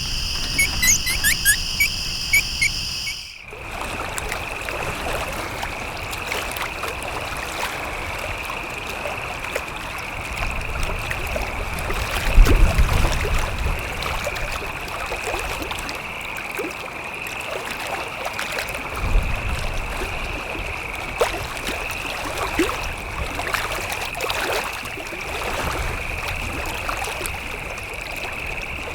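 Forest ambience: water trickling and flowing under a steady, high, shrill insect drone. About three seconds in the sound changes abruptly from a different drone with short bird chirps. Two low thumps come around the middle.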